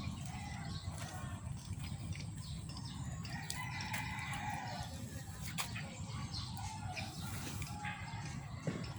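A drawn-out animal call lasting a little over a second, about midway through, over a steady low rumble.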